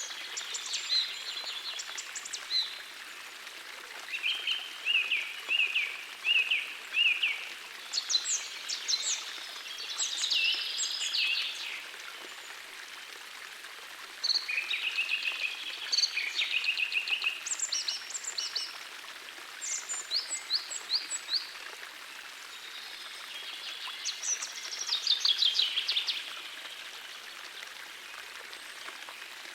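Several songbirds singing in repeated short phrases and chirps over the steady rush of a forest stream.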